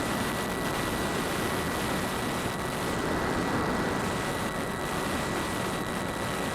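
DJI Phantom quadcopter's motors and propellers heard from a keychain camera mounted on the airframe: a steady rushing noise with a thin constant whine, mixed with wind buffeting the small microphone.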